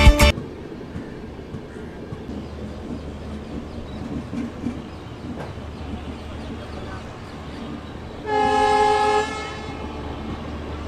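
Indian Railways double-decker express train running, its wheel and carriage noise heard from an open coach doorway. Near the end a train horn sounds once, steadily, for about a second.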